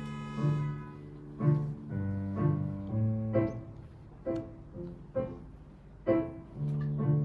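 Slow improvised piano music: single notes and chords struck every second or so over held low bass notes.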